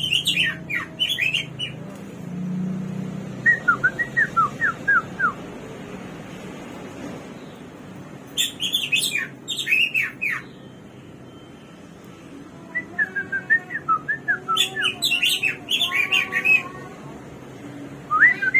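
Samyong (Chinese hwamei) songbird singing in bursts of rapid, varied whistled notes, with short pauses between phrases.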